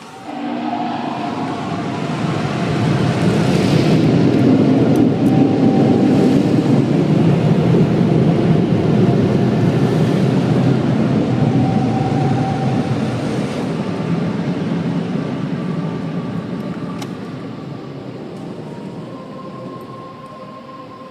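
Automatic car wash machinery working over the car: a loud rushing, mechanical noise that starts suddenly, swells over the first few seconds, holds, then slowly fades away.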